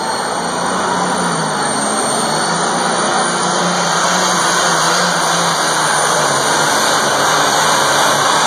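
Competition pulling vehicle's engine running hard under full load on a pull, a steady, loud sound with a wavering low pitch and a thin high whine held over it.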